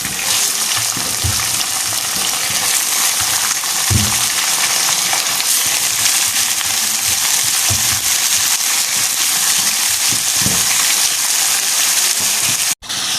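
Chicken pieces frying in hot ghee with onions in a karahi: a steady sizzle, with a few low knocks as pieces go in or are moved about. The sound cuts out for an instant near the end.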